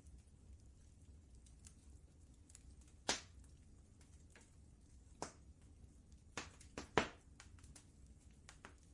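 Wood fire crackling in a fireplace: scattered sharp pops and snaps, the loudest about three seconds in and a cluster of them around seven seconds in, over a faint low rumble.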